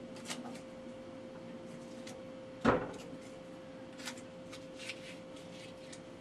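Objects being handled on a table: a few light clicks and one sharper knock about two and a half seconds in, over a faint steady hum.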